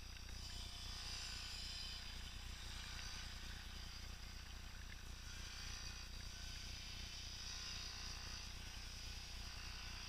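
Faint buzz of a small two-stroke dirt bike engine, rising and falling in pitch as it rides, over a low steady rumble.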